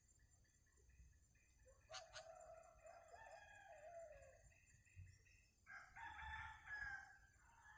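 A rooster crowing faintly, one long crow starting about two seconds in and another call around six seconds in. Two sharp clicks come as the first crow begins, and a quick row of faint high chirps runs before it.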